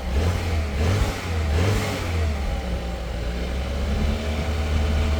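BMW engine running, blipped twice then settling to a steady idle, with a knock that is taken for worn, knocking hydraulic lifters.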